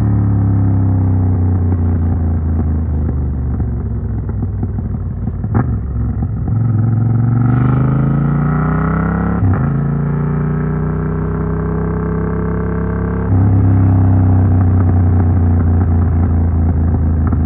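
Yamaha MT-07's parallel-twin engine running through an Arrow Works full exhaust with dB killer while riding. Its note falls over the first few seconds, then rises under throttle with brief breaks about 5.5 and 9.5 seconds in, like gear changes, and gets suddenly louder about 13 seconds in.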